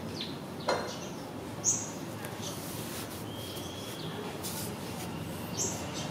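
A few short, high bird chirps, one about a second and a half in and another near the end, over steady background noise, with a short sharp sound just before the first chirp.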